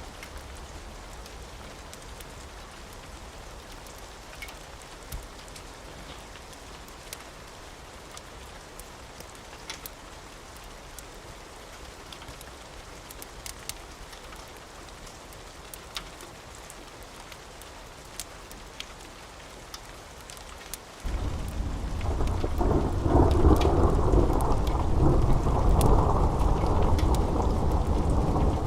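Steady rain hiss with scattered sharp ticks. About three-quarters of the way through, a loud rolling rumble of thunder comes in suddenly and keeps rumbling.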